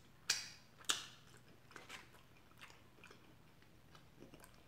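Close-up eating sounds: two crunchy bites into crispy fried food about half a second apart near the start, then softer chewing.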